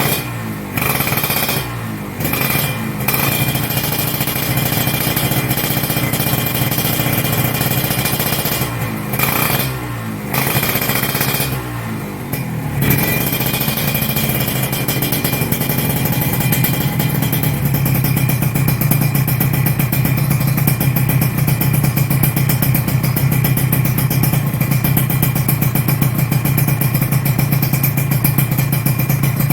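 Kawasaki Ninja RR's two-stroke single-cylinder engine running, revved up and down several times in the first half, then held at a steady fast run.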